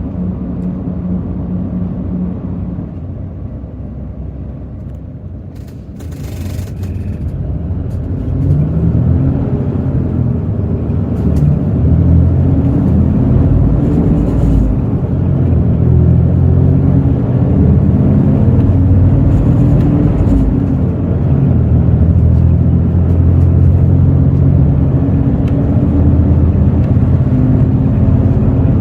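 Hino J08E-VD inline-six turbo-diesel of a bus, heard from inside, running steadily and then easing off, with a brief hiss about six seconds in. From about eight seconds in it rises in pitch several times over, each rise broken off by a gear change in the ZF six-speed manual gearbox, as the bus accelerates and the engine grows louder.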